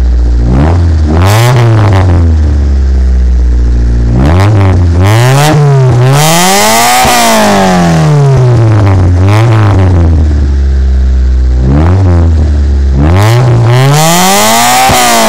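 Honda Civic engine revved repeatedly from idle: several quick blips, a longer rev that climbs and falls back in the middle, and another climbing rev near the end, settling back to a steady idle in between.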